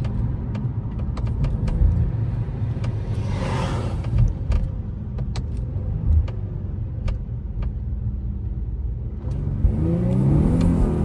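Car with a Nissan VQ-series V6 being driven: a low, steady engine and road rumble with scattered light clicks. Near the end the revs rise and then ease off in a quiet downshift.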